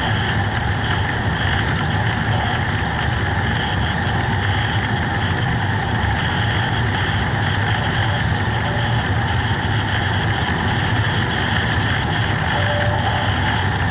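Radio-control plane in flight heard from its onboard camera: a steady drone of its motor and propeller mixed with air rushing past.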